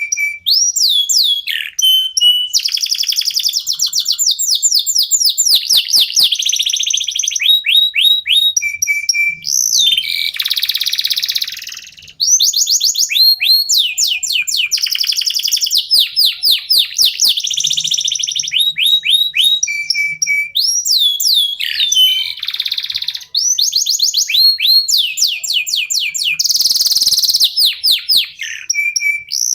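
Domestic canary (local Indonesian canary) singing a long, unbroken song of fast trills made of repeated downward-sweeping notes, with a harsher buzzing stretch twice.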